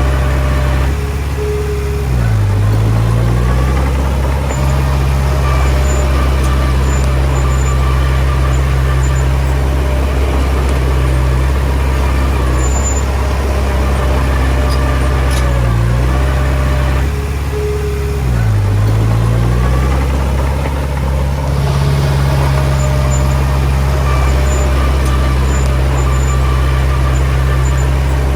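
Diesel engine of a Komatsu D20P bulldozer running steadily under load while pushing soil. The engine pitch sags and recovers twice, about two seconds in and again past the halfway mark.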